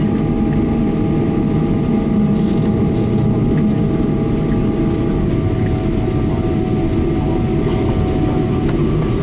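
Cabin noise aboard a Boeing 777-300ER after landing: a steady, loud rumble with several steady whining tones above it. Some of the tones drop out about halfway through, and the rest near the end.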